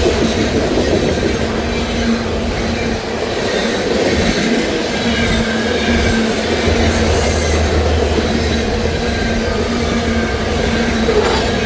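Loaded freight train rolling past at speed: a continuous rumble of steel wheels on rail with a steady low hum, and a brief high-pitched wheel squeal about six seconds in.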